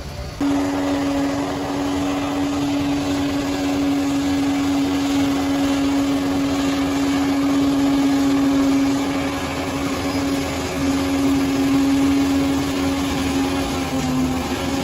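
Bulldozer running hard, a steady engine drone with a strong whine over a noisy rumble, starting abruptly about half a second in and dropping slightly in pitch near the end.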